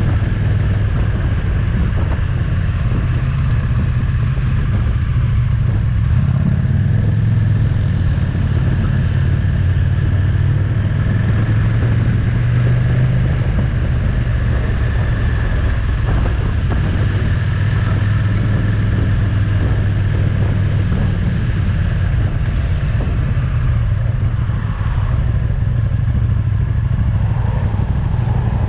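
Motorcycle engine running at steady revs while under way, with a slight shift in pitch near the end.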